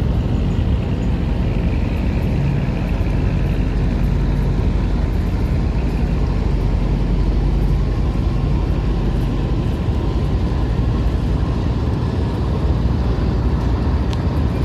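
River ferry's engine running steadily under way, a low, even drone.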